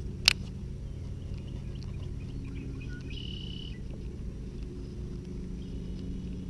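A single sharp click shortly after the start over a steady low hum, with a brief high-pitched chirp about three seconds in.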